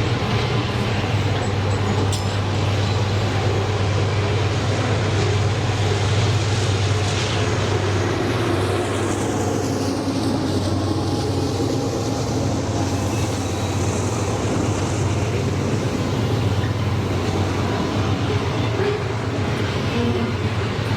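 Diesel freight train running past on the rails: a steady low locomotive engine drone under continuous wheel and wagon rolling noise.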